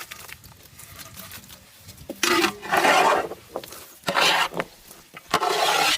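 Fruit being handled and prepared for a salad: four short scraping, rustling sounds, the longest about a second.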